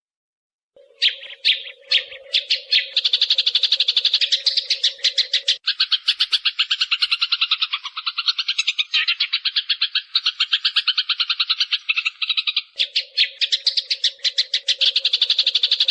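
Recorded sparrow calls played as a decoy: a few separate chirps about a second in, then fast, continuous chattering chirps. A low steady hum runs underneath for the first few seconds and again near the end.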